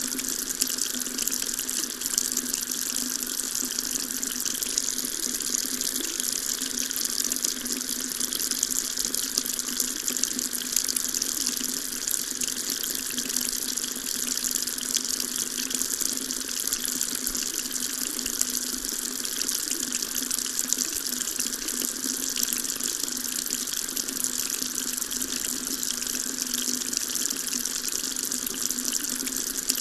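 Tap running steadily into a sink, an even splashing hiss of water with no change in flow.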